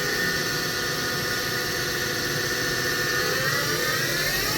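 Spindle of a 2013 Hurco VM5i CNC vertical machining center running with a steady multi-toned whine, then speeding up from about three seconds in, its whine rising smoothly in pitch.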